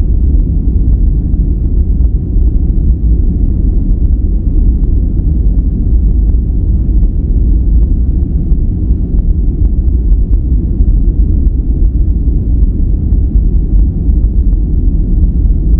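Steady, deep rumbling noise with almost no hiss in the high end, like brown noise rather than bright white noise: a continuous relaxation noise track that does not change.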